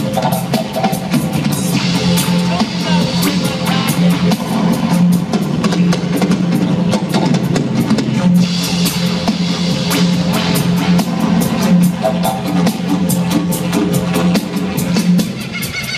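Live concert music: drum kit and guitar playing over a steady low drone, with a fast, even beat.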